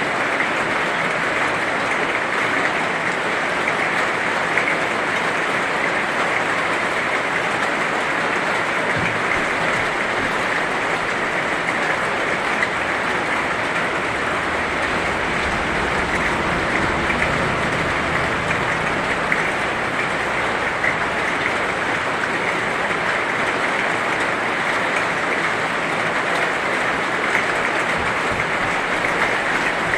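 Heavy rain falling steadily: a dense, even hiss of drops with a fine crackle. A low rumble swells and fades around the middle.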